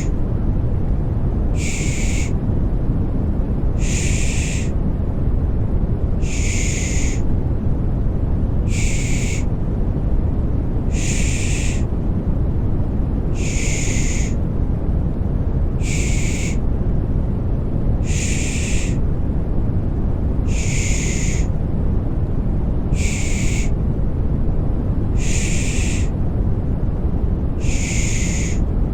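Rhythmic 'shh' shushing to soothe a baby, a short hiss repeating about every two and a half seconds, over a steady deep white-noise rumble.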